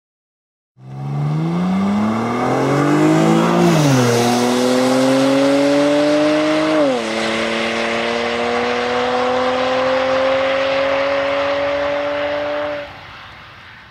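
Mercedes-Benz C350 (W204) V6 exhaling through a PIECHA Design quad exhaust, accelerating through the gears: the engine note climbs, drops with an upshift about three seconds in and again about six seconds in, then rises slowly and cuts off near the end.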